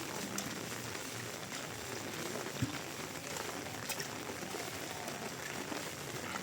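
Rain falling steadily, a continuous hiss with scattered drip ticks, and a single short dull thump about two and a half seconds in.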